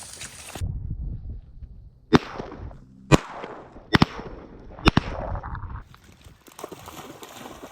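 Shotgun shots at incoming teal: a string of sharp reports roughly a second apart, each with a short echo.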